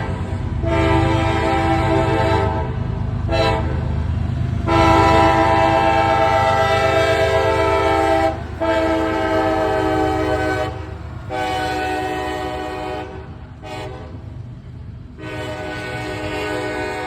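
Freight locomotive air horn sounding a series of long blasts broken by two short taps, over the low rumble of the train rolling through the grade crossing.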